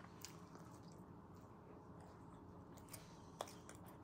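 Faint chewing of fries, with a few soft mouth smacks and clicks; the sharpest click comes about three and a half seconds in.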